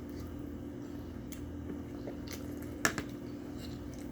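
Close-miked eating: soft, wet chewing with a few mouth clicks, the sharpest nearly three seconds in, over a steady low hum.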